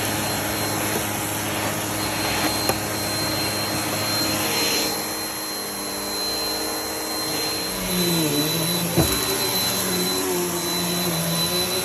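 Vacuum cleaner running steadily with a high motor whine. In the second half its pitch dips and recovers over and over as the load on the head changes, with one sharp knock.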